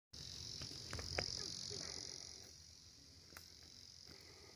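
Steady high-pitched chirring of insects in woodland, with a few sharp clicks, the loudest about a second in.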